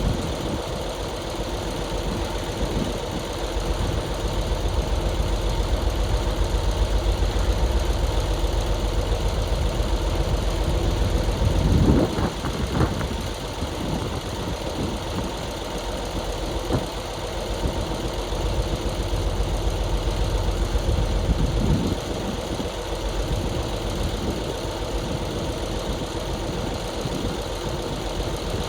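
Heavy diesel engine running steadily, with a brief louder surge about twelve seconds in.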